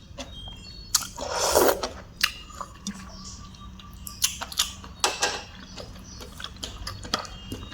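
Eating sounds: a spoon clicking and clinking against a bowl several times, with a louder noisy slurp of broth about a second in.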